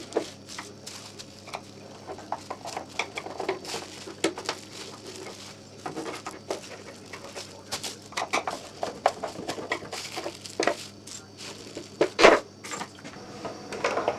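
Hand work on a Bell & Howell 8mm projector's back cover: irregular small clicks, taps and scrapes of a screwdriver and screws as the cover is unscrewed, with a couple of louder knocks near the end.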